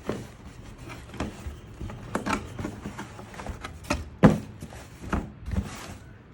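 Motorcycle boots being handled and put down: a series of irregular knocks and thumps, the loudest about four seconds in.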